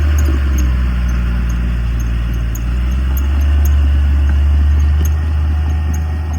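Heavy diesel earthmoving machinery running steadily with a deep rumble that swells a little about three seconds in and eases near the end.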